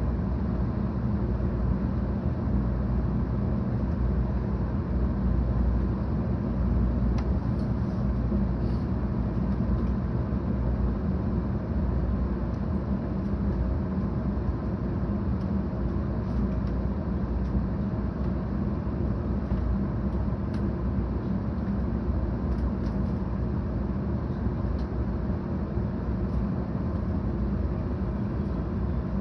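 Steady low rumble heard inside a passenger car of a 700 series Shinkansen train.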